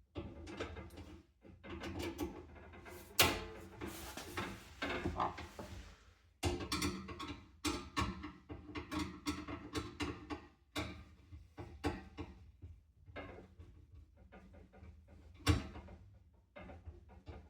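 Irregular clicks, knocks and rattles of box fan parts being handled and taken apart, with two sharper knocks, one about three seconds in and one near the end.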